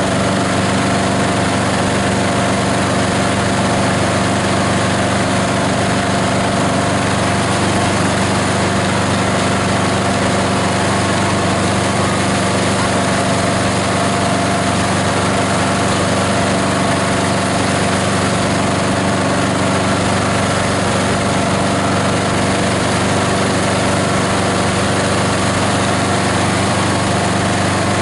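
18 HP diesel engine of a plastic-waste grinder running steadily at an even speed.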